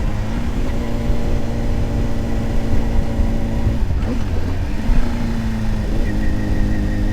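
Honda CBR600RR inline-four engine running at steady revs under way, with wind rush over the microphone. About four seconds in the engine note briefly dips and recovers, as in a gear change, and near the end it steps up to a higher pitch.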